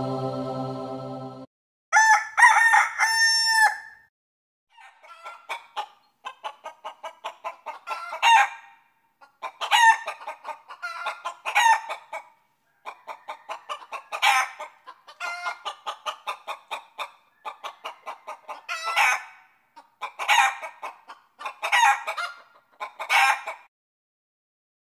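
A rooster crows about two seconds in, followed by chickens clucking in runs of quick pulses, in repeated bursts until near the end. Before the crow, a droning chant-like music cuts off suddenly.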